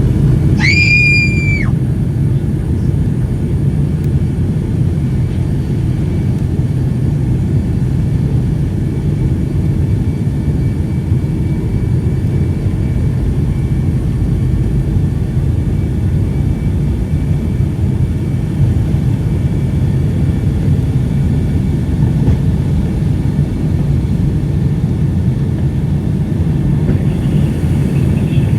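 A girl's single high-pitched scream lasting about a second near the start. Under it runs the steady low rumble of a Boeing 757-200 cabin, with the engines running before takeoff.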